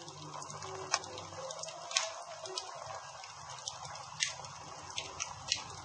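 Wood campfire crackling, with irregular sharp pops over a steady low hiss, the loudest pops about 1, 2 and 4 seconds in.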